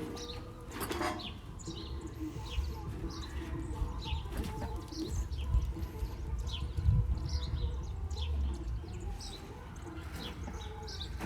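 Small birds chirping repeatedly in short, high calls, over a steady low rumble.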